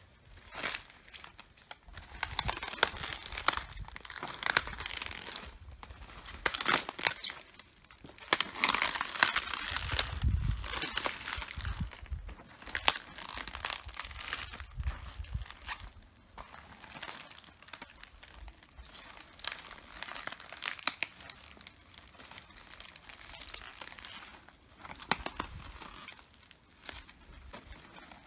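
Red cabbage being trodden on: irregular crisp crunching, crackling and snapping as the leaves crush and tear underfoot, with a few dull thuds of the steps.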